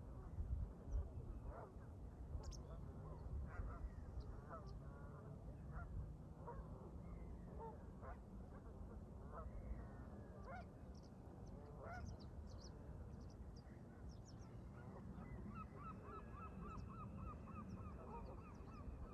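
Canada geese honking, many short calls with a quick run of honks about three-quarters of the way through. Small birds chirp faintly higher up, and wind rumbles low underneath.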